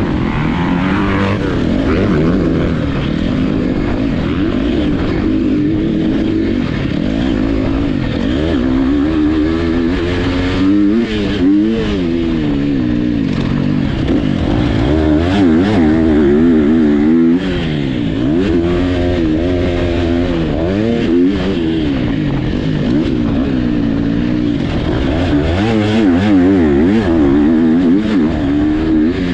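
Motocross dirt bikes racing, engines revving up and falling off again and again through the gears, with at times several bikes overlapping.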